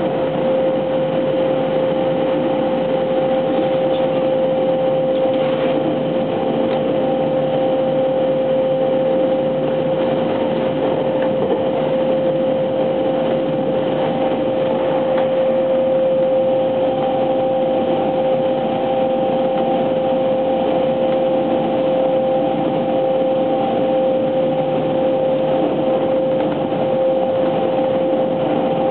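Running noise inside a JR West 683 series 2000-subseries electric train moving at a steady speed: an even rumble of wheels on track with a steady hum held at one pitch.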